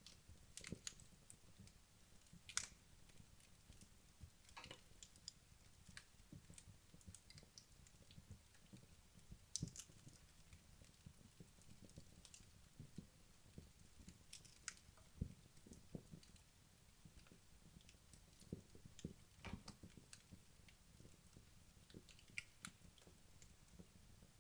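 Wood fire crackling: burning logs give off scattered sharp pops and snaps at irregular intervals over a faint low rumble of flame.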